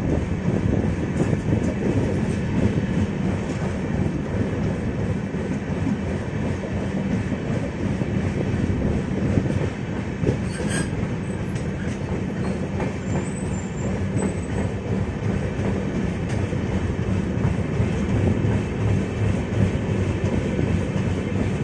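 Passenger train running on the track, heard from an LHB coach: a steady rumble of wheels on rails, with one sharper click about halfway.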